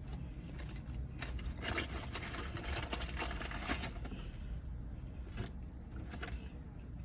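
Crisp fried chicken being bitten and chewed: a dense run of crackly crunching for a few seconds, then a few scattered clicks, over a steady low hum.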